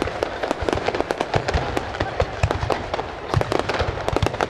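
Finale barrage of aerial fireworks bursting overhead: a dense, rapid crackle of many small pops, with deeper booms of larger shells mixed in.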